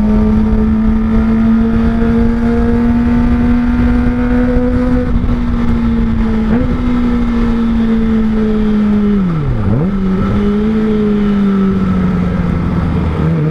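Kawasaki ZX-25R 250 cc inline-four engine breathing through an R9 Zeta aftermarket exhaust, held at steady high revs while riding. Its pitch dips and recovers quickly about ten seconds in, then eases down near the end, over a low wind rush.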